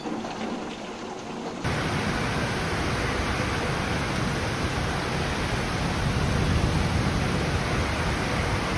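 Heavy downpour: a loud, dense, even hiss of rain, cutting in abruptly about one and a half seconds in after a quieter stretch.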